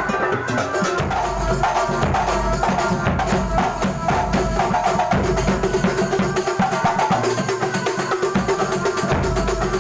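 Kuntulan ensemble rehearsing: hand-struck frame drums and other percussion at a fast, steady beat, with a wavering melody line above them.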